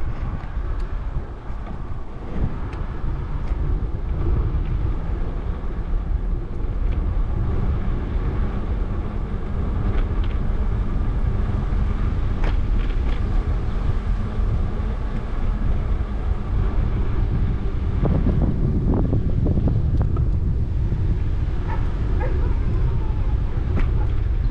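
Wind buffeting the microphone of a moving bicycle's camera, a steady low rumble with road noise, swelling louder about three quarters of the way through, with a few faint ticks.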